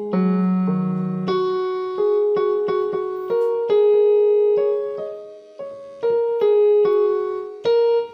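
Background piano music: a slow melody of single struck notes that fade away, over a low chord for the first second and a half.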